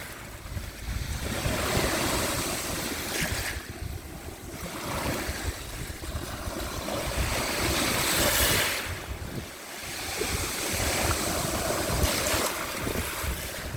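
Small waves of the Sea of Azov washing onto the shore, the surf swelling and falling back about every four seconds. A low wind rumble sits on the microphone.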